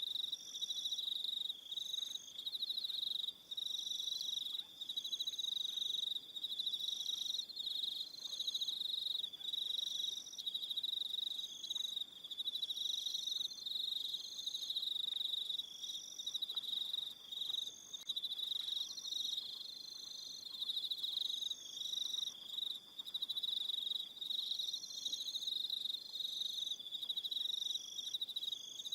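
Crickets chirping in an evening chorus. A steady, high, unbroken trill is overlaid by shorter, higher chirps that repeat every second or so.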